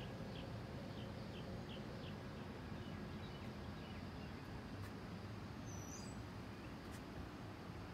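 Outdoor ambience: a small bird chirping in short quick notes, about three a second, for the first two seconds or so, over a steady low rumble. A single higher bird note comes about six seconds in.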